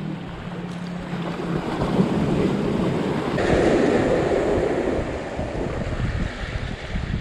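Surf breaking on the shore, with wind buffeting the microphone; a wave surges up to its loudest about halfway through, then falls away.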